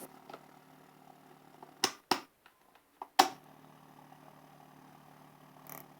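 A few sharp clicks, about two seconds and three seconds in, over a faint steady hum.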